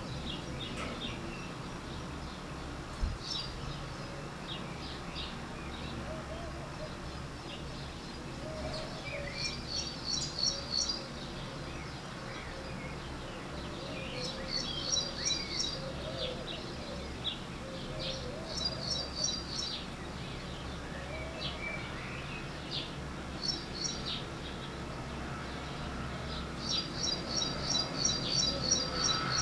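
Small birds chirping outdoors: quick runs of high repeated notes every few seconds, the longest run near the end, with softer lower wavering calls between, over steady open-air background noise.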